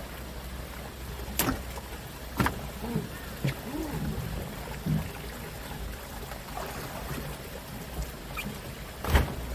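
Fishing boat's engine running with a steady low hum, broken by a few sharp knocks, the loudest near the end.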